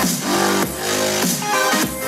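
Electronic dance music with a steady beat and deep bass, played through a portable Bluetooth speaker during a sound test.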